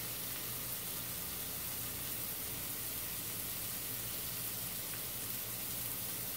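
Sliced onions frying in a cast-iron skillet, a steady sizzle.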